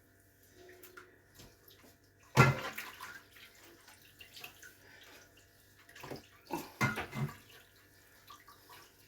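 Water splashing in short irregular bursts, the loudest a sudden splash about two and a half seconds in, with smaller splashes a little after the middle.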